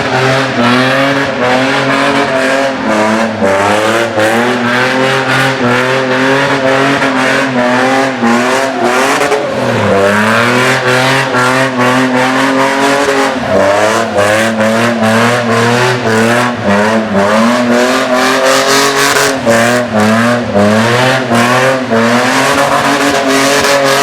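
A car engine held at high revs, its pitch wavering as the throttle is worked, dropping and climbing back about ten and thirteen seconds in, with tyres squealing under wheelspin.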